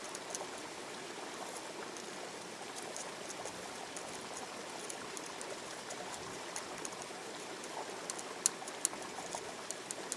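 Water trickling steadily, with scattered light ticks and a few sharper clicks near the end.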